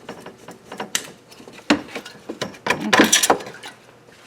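Handling noise from tools and parts: a run of sharp clicks and small rattles, with a louder burst of clatter and scraping a little past the middle.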